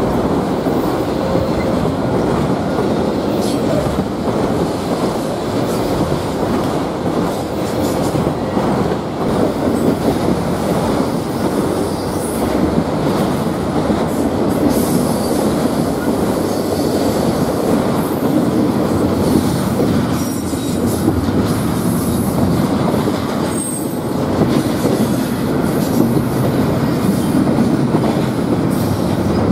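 Freight cars, autoracks and then double-stack container well cars, rolling past at close range: a steady, loud rumble and clatter of steel wheels on the rails that does not let up.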